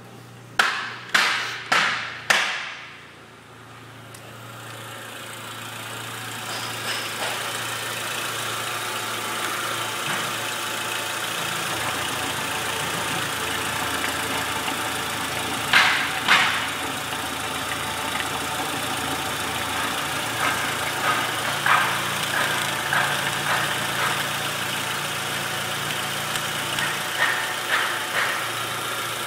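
Renault Scenic's 1.6-litre K4M four-cylinder 16-valve petrol engine idling steadily, heard close up at the open engine bay. It grows louder over the first few seconds as the microphone nears it. Four sharp knocks come in quick succession about a second in, a pair of knocks comes in the middle, and there are small clicks near the end.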